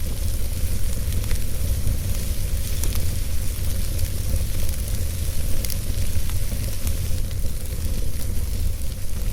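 Fire burning in a fireplace: a steady low rumble of flames under a hiss, with scattered sharp crackles, a few of them louder than the rest.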